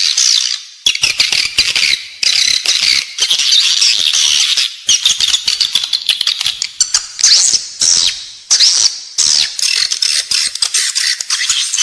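Edible-nest swiftlets' indoor call: dense, high-pitched twittering chirps in rapid runs, broken by short pauses every second or two. It is the lure recording played inside a swiftlet house to draw the birds in to nest.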